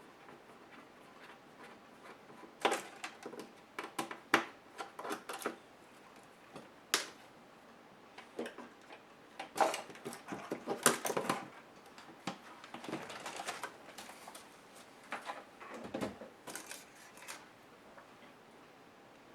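Irregular clicks, taps and light rattles of a Compaq HP 6720s laptop's parts and tools being handled as it is taken apart, coming in scattered clusters with short pauses between.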